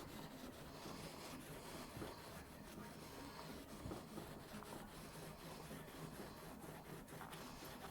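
Faint rubbing and scrubbing, as of a cloth or brush worked over a microwave's surface during cleaning.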